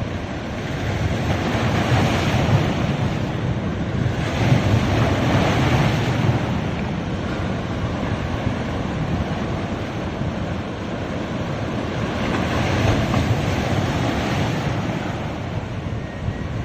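Sea waves washing onto a beach: a continuous rush of surf that swells louder a few times as waves break.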